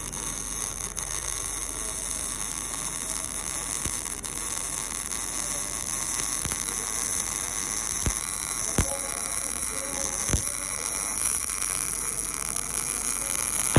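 MIG welding arc from a Millermatic 252 running steadily on steel, set at 18.4 volts and 265 wire speed with .035 wire and 75/25 argon-CO2 shielding gas. A few sharp pops come about eight to ten seconds in.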